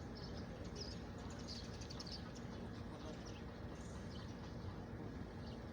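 Many small birds chirping in short, high, irregular calls over a steady low hum of background noise.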